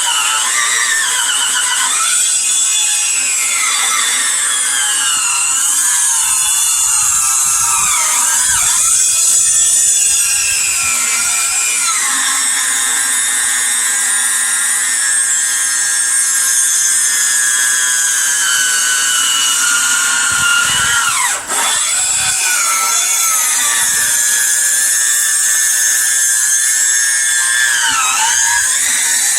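Electric chainsaw cutting into a log, its motor whine sagging in pitch each time the chain bites into the wood and then recovering. About two thirds of the way through it briefly dips almost to a stop before picking up again.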